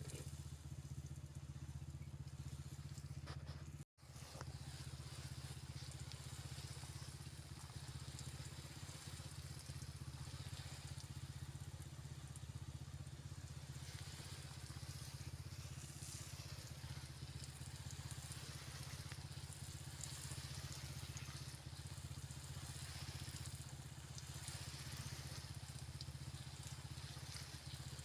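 Steady low drone of a motor with a faint hiss above it; the sound cuts out for an instant about four seconds in.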